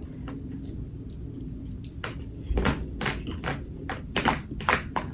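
Close-up eating sounds: a person chewing, with a scattered series of short clicks and smacks, most of them in the second half.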